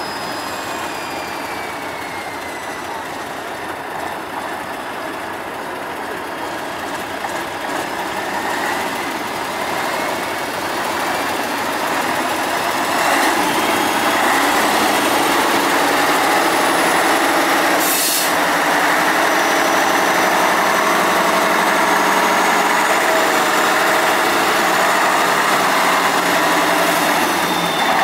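Praga V3S 6x6 army truck's air-cooled six-cylinder diesel running and working off-road. It grows louder a little under halfway through, with faint rising and falling whines above it and a single sharp knock about two-thirds of the way in.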